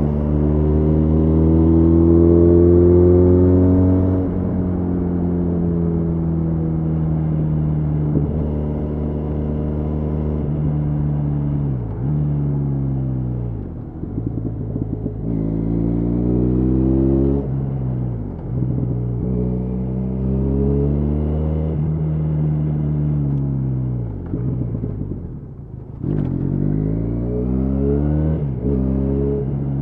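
Benelli Leoncino 500's 500 cc parallel-twin engine under way at speed, its pitch climbing steadily and then dropping sharply about every four to six seconds before climbing again.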